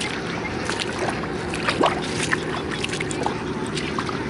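Three-cylinder Iveco diesel engine of a Fiat DT 45-66 tractor idling steadily, with scattered light clicks and knocks over it.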